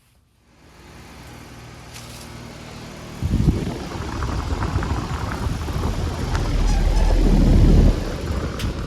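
2008 Bryant Legacy Line heat pump outdoor unit starting up and running in cooling mode: a mechanical hum that builds from about half a second in, with a sudden louder low rumble about three seconds in that grows stronger near the end.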